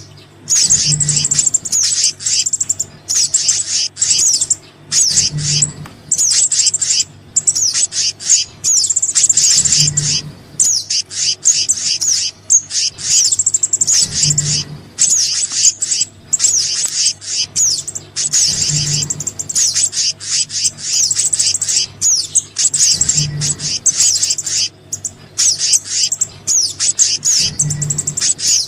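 Looped bird-lure recording of small songbirds, sogon and kehicap (monarch flycatcher) calls, in rapid high-pitched chirping and trilling with brief gaps. A faint low pulse repeats about every four and a half seconds.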